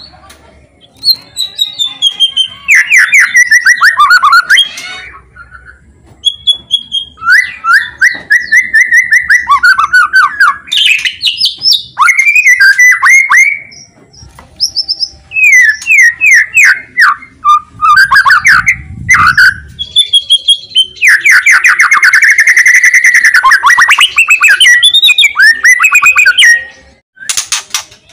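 White-rumped shama (murai batu) singing loudly: phrases of rapid, fast-repeating notes and sweeping whistles, with short pauses between phrases.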